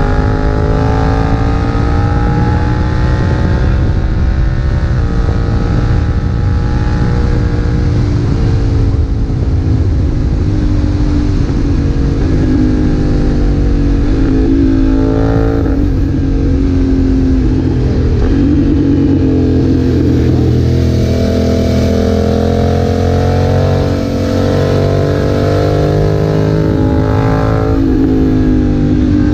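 BMW F900R's parallel-twin engine through a Leo Vince aftermarket exhaust, ridden hard: the engine note climbs under throttle and drops sharply at each gear change, several times over, with quick rising blips during downshifts around the middle.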